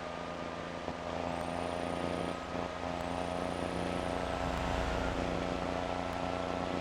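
Scania diesel running steadily on the road, a low even drone with a thin steady whine above it, getting slightly louder about a second in.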